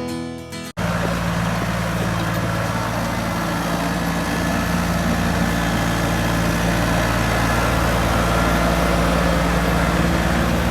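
Strummed guitar music that cuts off under a second in, followed by an engine running steadily at idle with a constant low hum.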